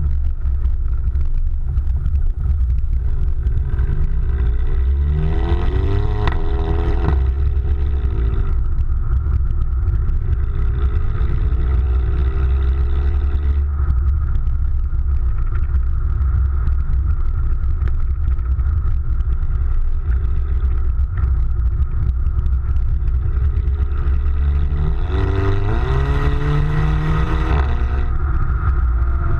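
Exhaust of a VW Beetle 2.0 TSI turbo four-cylinder with the middle silencer replaced by a dummy pipe: a steady deep drone, with the revs rising twice, about 5 seconds in and again near the end, each rise lasting two to three seconds and cutting off sharply.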